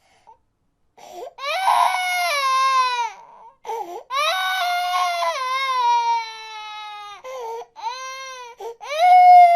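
Baby crying: after about a second of silence, a run of long wails that each fall in pitch, broken by short breaths, the loudest wail starting near the end.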